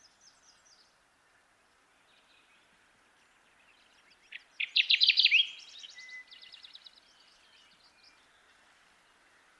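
Kirtland's warbler singing: one loud song of rapid, sharp notes about four and a half seconds in, trailing off into softer rapid notes, with a faint song fragment at the start. A steady faint hiss lies underneath.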